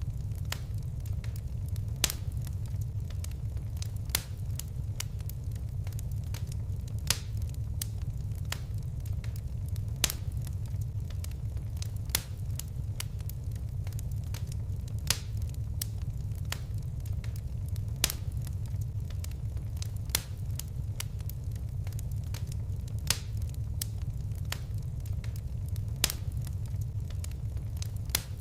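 Fireplace fire crackling: a steady low rumble of flames with sharp pops every couple of seconds.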